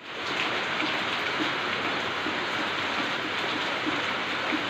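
Steady rain falling on trees and foliage, an even hiss of drops that fades in at the very start.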